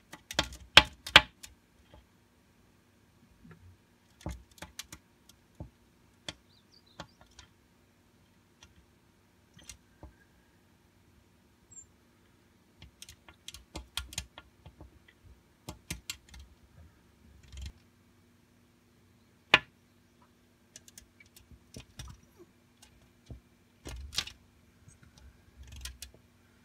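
A bird's beak tapping and pecking in irregular sharp clicks, singly and in quick runs, as it attacks its own reflection. A faint steady hum runs underneath.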